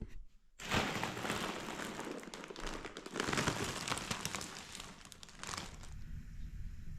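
Crinkling, rustling noise made of many small rapid crackles, starting about half a second in and dying down about a second before the end.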